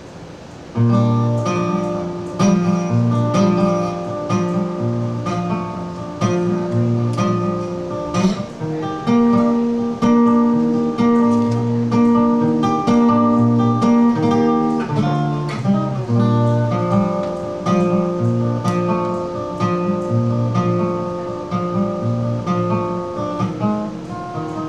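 Solo acoustic guitar intro played with fingerpicked and strummed chords, starting about a second in after a quiet moment.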